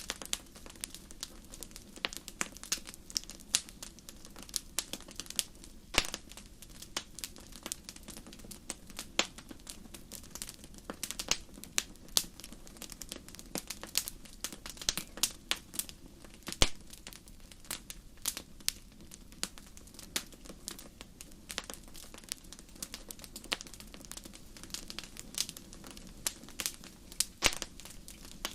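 Wood fire crackling in a fireplace: dense, irregular pops and snaps, several a second, over a low steady rumble of the burning fire.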